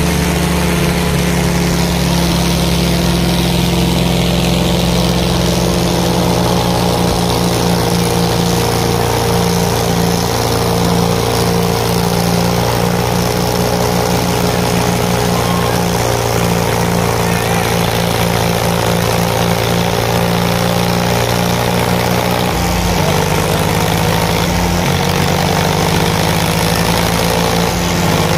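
Tractor diesel engine running loudly and steadily, its pitch sagging a little midway and shifting lower about three-quarters of the way through.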